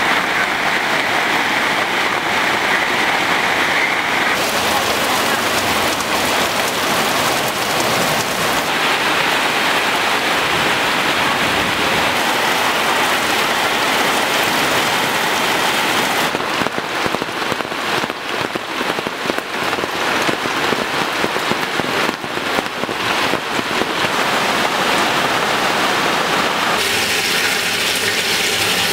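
Heavy rain falling in a steady hiss, its character shifting abruptly several times. From about the middle on, individual drop impacts stand out more.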